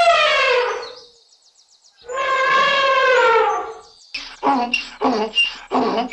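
Animal calls: two long, drawn-out pitched calls, each sliding down in pitch at its end, followed from about four seconds in by a quick series of short calls, about two a second.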